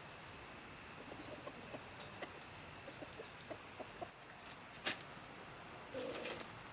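Chickens clucking softly in short scattered notes, with a louder call near the end, over a steady high insect hum. A single sharp click comes about five seconds in.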